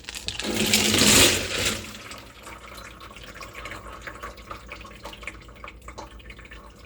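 Gritty slurry and water being poured out of a rock tumbler barrel, with a loud gush about a second in, then softer trickling and scattered small clicks.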